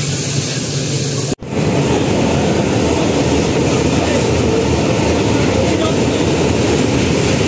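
Passenger train running, a steady rumble of wheels and coaches heard from on board. After a brief cut-out about a second and a half in, the train is crossing a steel truss bridge.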